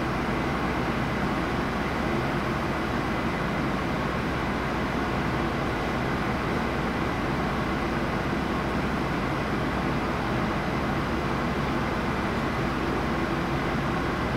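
Steady rumble and hiss of a passenger train rolling slowly away over the station tracks and points.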